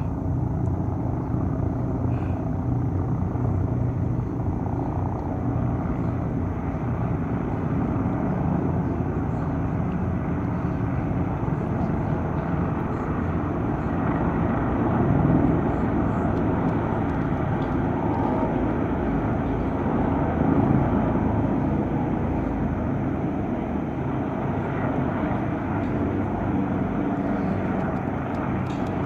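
Police helicopters flying: a steady, loud rotor and engine drone that swells slightly a couple of times.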